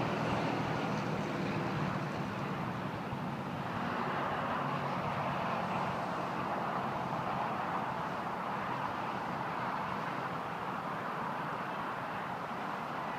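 1947 Dodge's flathead inline-six engine idling steadily.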